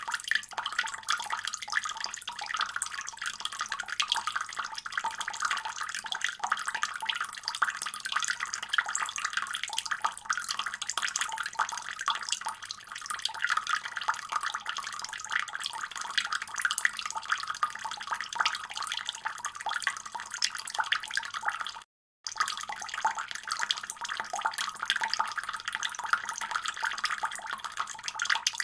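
Water running steadily from a tap into a sink, a continuous splashing stream. It cuts out completely for a split second about three quarters of the way through.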